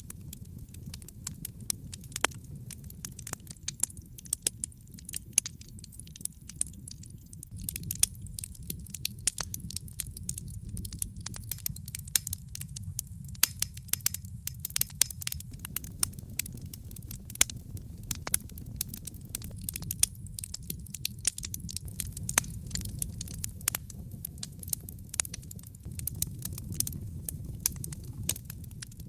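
Wood fire burning in a fireplace: a steady low rumble of flames with many sharp, irregular crackles and pops, which come more thickly from about 8 seconds in.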